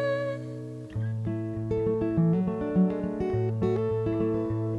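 Instrumental guitar passage in a live folk song: a held chord fades away, then about a second in, picked notes and chords move through a short melodic line.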